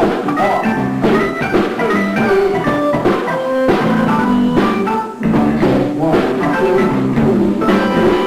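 Live band playing an instrumental funk and R&B jam: a drum kit keeping a steady beat under repeating pitched keyboard and guitar-like lines, with no singing.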